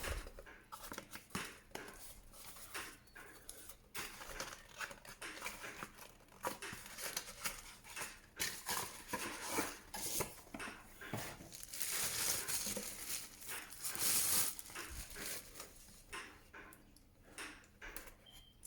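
Plastic packaging crinkling and rustling, with light knocks, as a robot vacuum's charging dock is unwrapped and handled. The rustling is loudest about twelve to fourteen seconds in.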